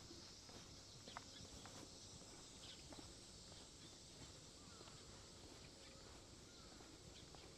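Faint footsteps of a person walking on pavement, soft irregular steps over a steady high hiss of outdoor ambience.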